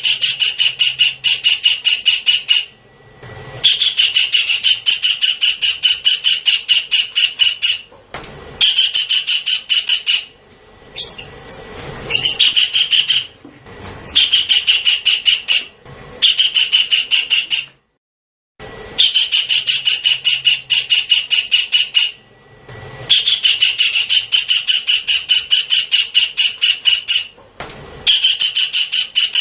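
Javan kingfisher calling: a loud, rapid rattling series of harsh notes, repeated in bouts of one to four seconds with short pauses between. The calls are played back as a bird-lure recording.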